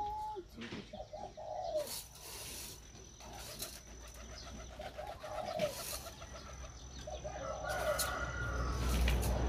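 A bird calls repeatedly, in short phrases every couple of seconds, over the light rustle of hands sifting through dry rice in a pot.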